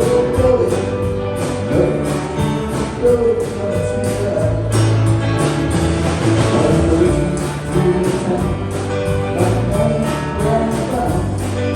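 Band music with a steady drum beat, guitar and a singing voice.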